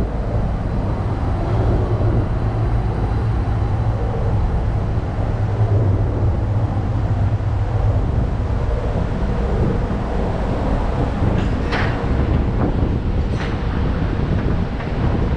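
Ship's engine-room machinery running with a loud, steady low drone. Two short knocks sound over it in the last third.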